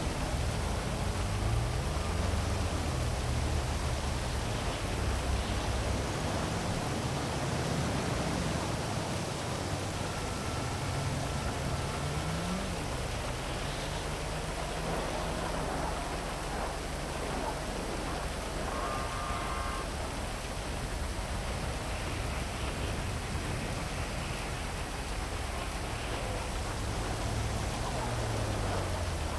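Heavy rain falling steadily over a city, with the low hum of passing traffic rising and falling beneath it.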